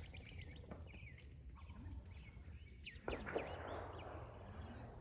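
Birds chirping outdoors, with a thin, high, steady trill for the first half. About three seconds in comes a burst of rushing noise that fades over the next second or two.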